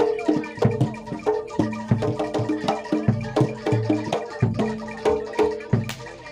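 Javanese gamelan music for a kuda lumping dance: pitched metal percussion struck in a quick, steady rhythm over low drum beats.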